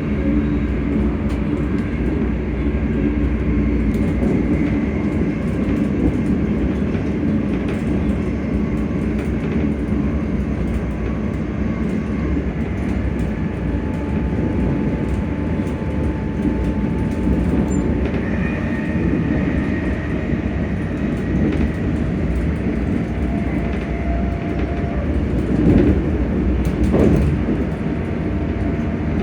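ScotRail Class 385 electric multiple unit running: a steady low rumble with a faint whine from the traction motors whose pitch shifts now and then, and scattered clicks of the wheels over the rail joints.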